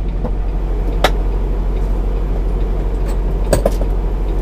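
Semi-truck diesel engine running steadily at low revs during a slow reverse, heard from inside the cab, with a few sharp clicks about a second in and twice near the end.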